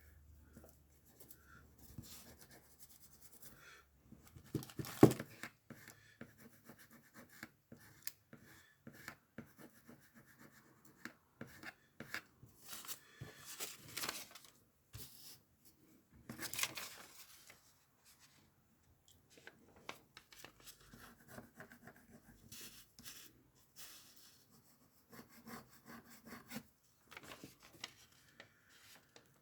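Paper rustling and rubbing in short bouts as document repair tape is laid and smoothed onto a torn page, with a sharp knock about five seconds in.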